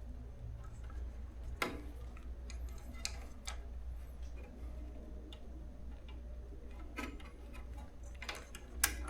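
Scattered small clicks and taps of hands handling wires and small parts during electrical repair work, over a steady low hum.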